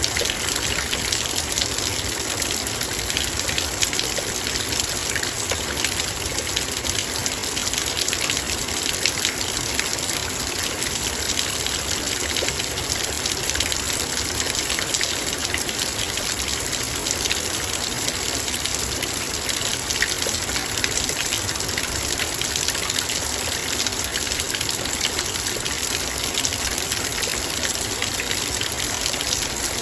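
Heavy rain falling on a metal bowl: a steady, dense rush of rain made up of countless small, sharp drop hits.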